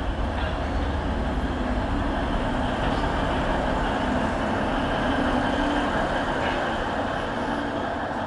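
Alishan Forest Railway narrow-gauge train running into the station, a steady rumble with a faint low drone.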